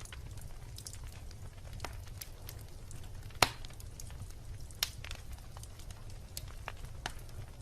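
Wood bonfire crackling with scattered small pops and one loud snap about three and a half seconds in, over a steady low rumble.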